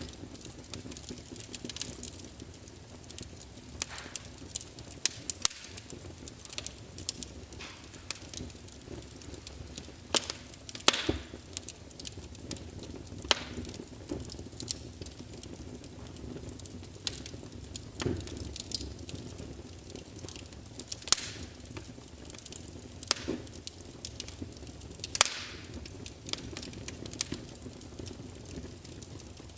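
Wood fire burning in a fireplace: a steady soft crackle with irregular sharp pops and snaps from the burning logs, a few of them louder than the rest.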